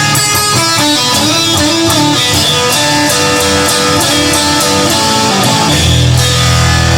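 Instrumental music led by electric guitar playing quick runs of notes, with a heavy low bass coming in near the end.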